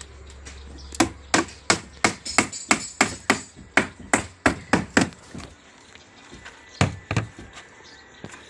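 A fast run of sharp blows, about four a second for some four seconds, then two more strikes a little later, typical of a worker hammering or chopping.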